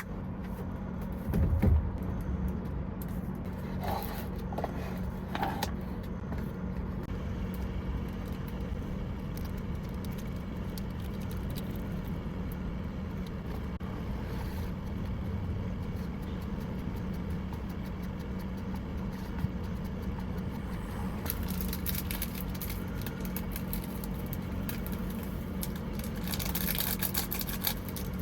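Truck engine running steadily with a constant low hum, with a few small clicks and knocks in the first few seconds and short hissy passages near the end.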